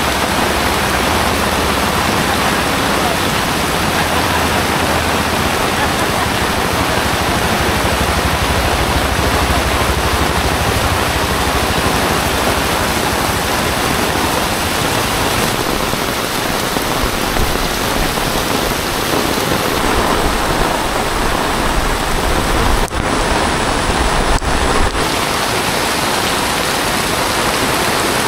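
Heavy tropical rain falling on a wet street, a loud, steady, dense hiss.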